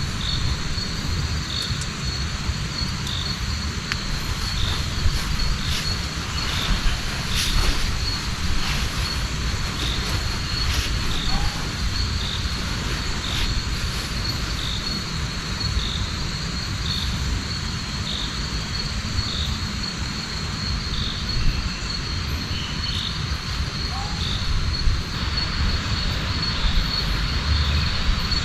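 Steady rain falling, with insects trilling in one continuous high-pitched note and a second insect chirping about once a second. A few sharp drop-like ticks stand out here and there.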